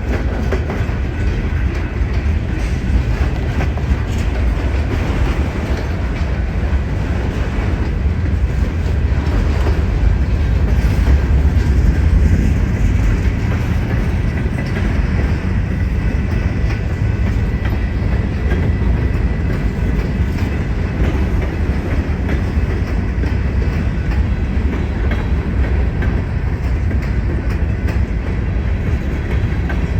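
Train rolling past: a steady, loud rumble of wheels on the rails, with a faint high ring in the middle.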